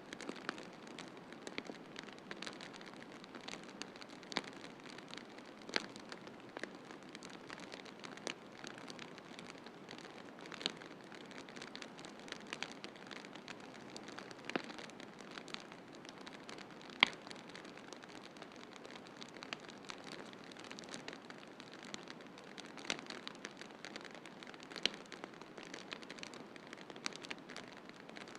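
Wood fire crackling in a fireplace: irregular sharp pops and snaps over a steady hiss, with one louder pop a little past halfway.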